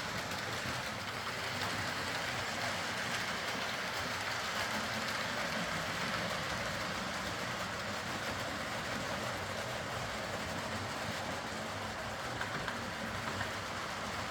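Hornby Class A4 OO gauge model locomotive running steadily along the track: a continuous whir of the small electric motor and the rolling of its wheels on the rails.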